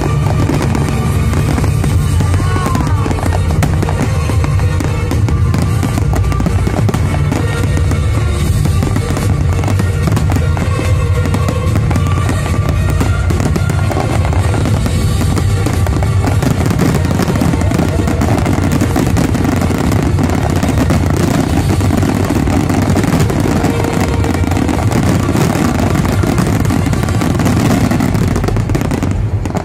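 Fireworks finale: a dense, continuous barrage of rapid bangs and crackling shell bursts, with music playing alongside.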